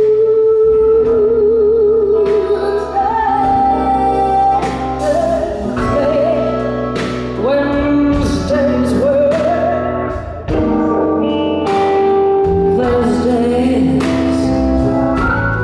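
Live slow blues band: a female singer holds one long note with vibrato, then goes into bending, wavering melodic phrases over bass, drums, guitar and organ.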